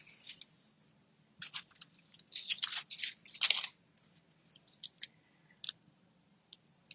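Glue dots being peeled off their paper backing strip, with short crinkly rustles about one and a half, two and a half and three and a half seconds in, then a few small light clicks as the paper pieces are handled.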